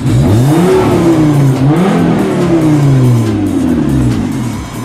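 2001 Volvo S60's naturally aspirated 2.4-litre inline five-cylinder engine revved in Park: the revs climb quickly, dip slightly, climb again about two seconds in, then fall steadily back toward idle.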